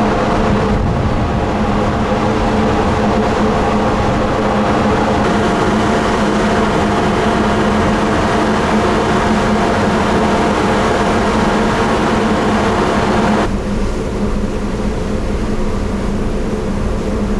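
Ferry engine droning steadily under a loud rushing noise of wind and spray on the open deck. About thirteen seconds in, the rushing drops away suddenly and the engine drone carries on.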